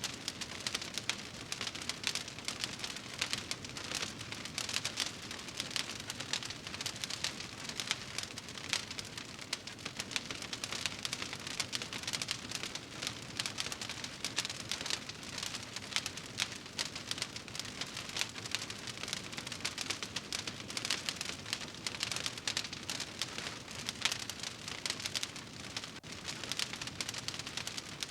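Wood fire in a fireplace crackling, a steady dense stream of small snaps and pops.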